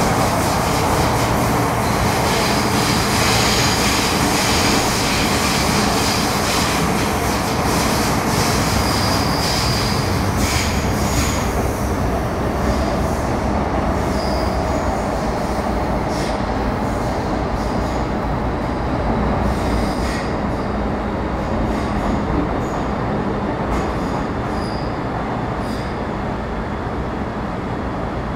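Metro Cammell M-Train EMU running at speed, heard from inside the car: a steady rumble of wheels and traction gear, with wheel squeal in roughly the first ten seconds and scattered sharp clicks from the track later on.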